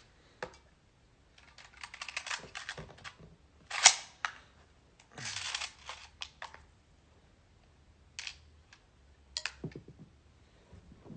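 BB gun being handled: bursts of rattling and clicking from its plastic parts and mechanism, with one sharp snap about four seconds in, then a few scattered clicks.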